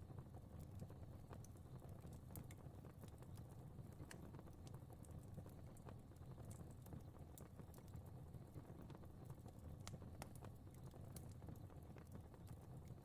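Fire crackling faintly: scattered, irregular small pops and snaps over a low, steady rumble.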